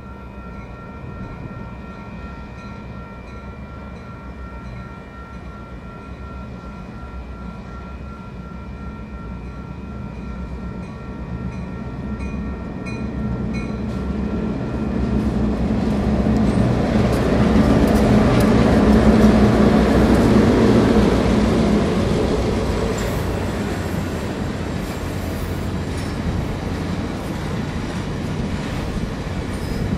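Kansas City Southern F-unit diesel locomotives approach and pass, their engine sound building to its loudest a little past halfway. The passenger cars then roll by with wheels clicking over the rail joints. A grade-crossing bell rings steadily until about halfway.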